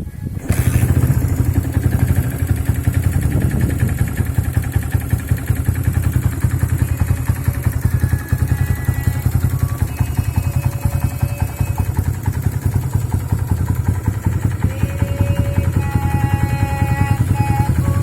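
Kawasaki Binter Merzy (KZ200) single-cylinder four-stroke motorcycle engine catching about half a second in, then running steadily at idle.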